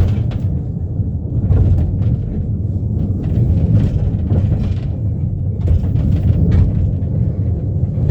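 A steady low rumble that stays at about the same level throughout.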